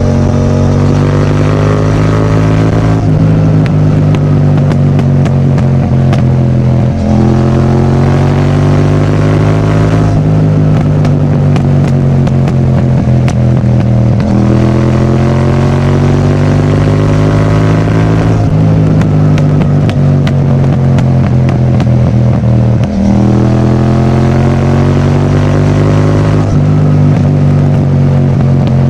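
Yamaha MT-07 parallel-twin engine through a full Akrapovič titanium exhaust while riding, its pitch repeatedly climbing under throttle and falling back, with brief drops at gear changes about 7, 14 and 23 seconds in.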